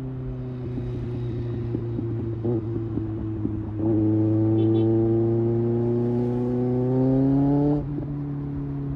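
Kawasaki ZX-6R's inline-four engine at highway speed: it runs steadily, then about four seconds in the throttle opens and it gets louder, its pitch climbing slowly as it pulls for about four seconds, before the throttle closes sharply and it drops back to a steady cruise.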